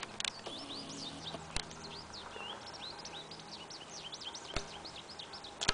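Small birds chirping and calling over and over, with a few sharp clicks.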